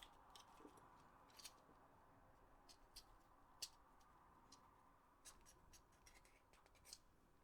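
Near silence: faint room tone with a steady faint hum and a few faint, irregular small clicks and taps of small parts being handled.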